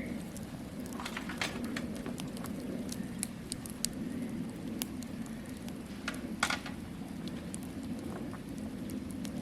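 Wood campfire crackling: irregular sharp pops and snaps over a steady low rushing sound, with a few louder pops, the biggest about six and a half seconds in.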